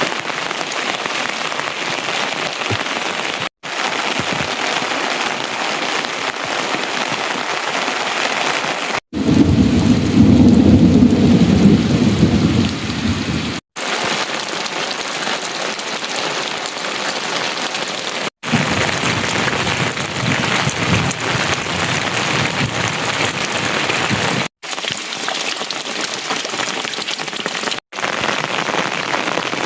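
Steady rain falling, broken by several short dropouts where clips are spliced together. About nine seconds in, a deep rumble of thunder rises over the rain for about four seconds, the loudest part.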